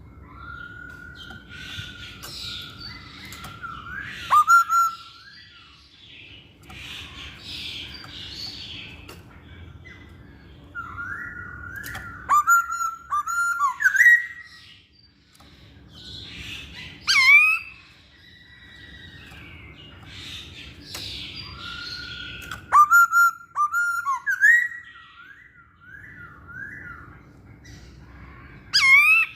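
Masked laughingthrush (poksay Hongkong) singing in repeated phrases: a level whistled note running into quick, loud, sharp falling notes, with softer chattering between phrases.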